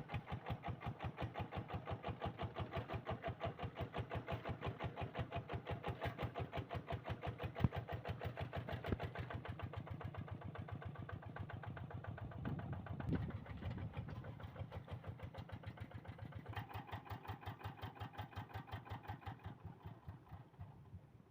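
Kubota RD85DI single-cylinder diesel on a Quick G1000 hand tractor running with a steady, even thumping beat. It dies away near the end.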